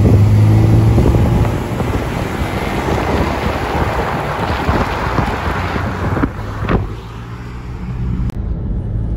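BMW 3.0-litre inline-six engines pulling away, with a low engine drone loudest in the first second or so. Then wind rushes over a microphone held out of the moving car's window. About seven seconds in, this gives way to the quieter road hum inside the cabin.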